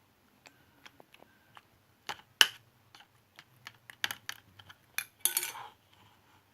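Slime being squeezed and worked by hand, giving a run of sharp, irregular clicks and pops. The loudest pop comes about two and a half seconds in, and a longer crackling burst comes near the end.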